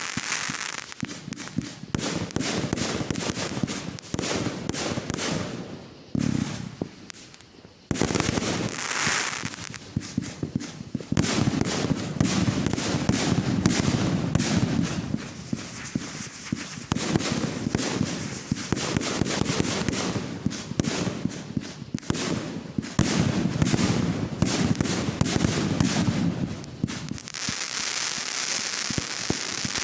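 Fireworks going off in rapid succession: a dense run of sharp bangs and crackling with deeper booms, easing into a short lull about six seconds in before the barrage resumes.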